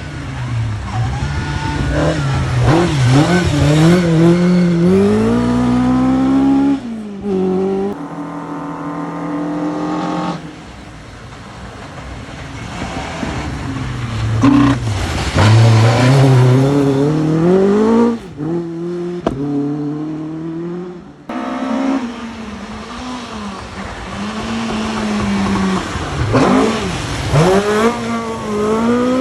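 Rally cars at speed, one after another, each engine revving up hard and dropping back with gear changes, in a run of short clips joined by sudden cuts.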